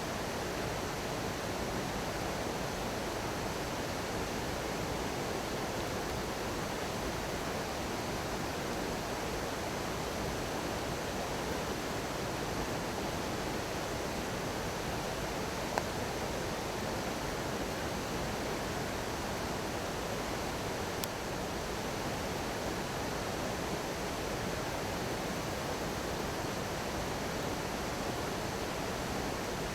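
Small stream babbling steadily, with a couple of sharp crackling pops from a wood bonfire about halfway through and again a few seconds later.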